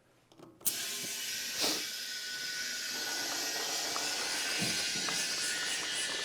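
Compressed air hissing from an air chuck into a tire as it is inflated, starting suddenly just under a second in and then running steady.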